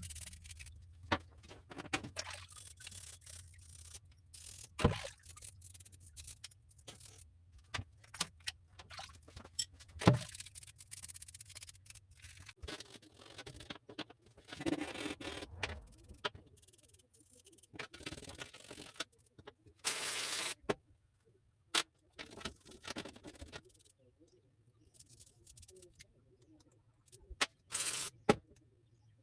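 Workshop handling noises: scattered clicks, knocks and scrapes of hand tools and metal parts being handled, with a few short bursts of hiss.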